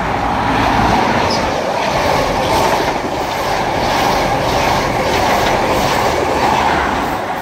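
High Speed Train (InterCity 125) running through the station at speed: a loud, steady rush of wheels on rail as the power car and then the coaches pass close by. From about two seconds in, a regular clickety-clack of the coaches' wheelsets comes roughly twice a second.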